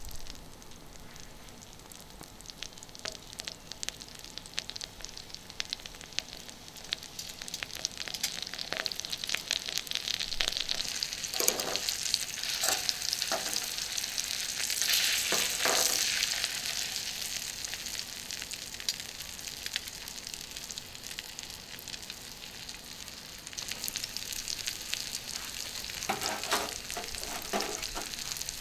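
Chicken thigh sizzling and crackling in butter in a small frying pan, swelling louder around the middle, with a few brief knocks or scrapes of a utensil against the pan.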